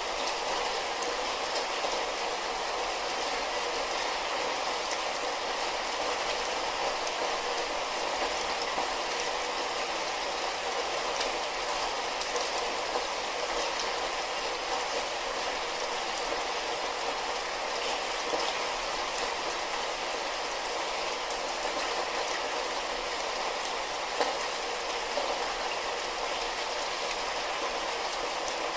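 Steady light rain falling, a constant even hiss with scattered faint drop ticks.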